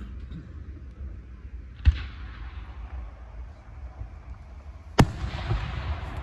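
Two aerial firework shells bursting about three seconds apart, each a sharp bang that trails off into a fading rumble.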